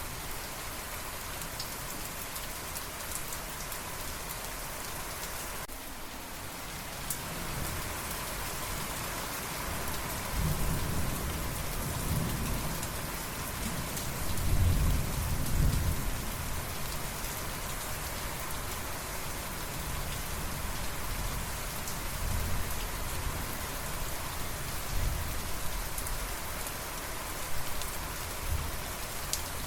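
Steady rainfall hissing, with a low roll of thunder that builds about ten seconds in, is loudest around the middle, then fades into smaller rumbles.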